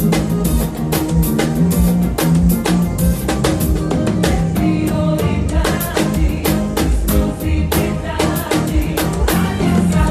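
Drum kit played in quick, dense hits over band music, with a steady bass line underneath.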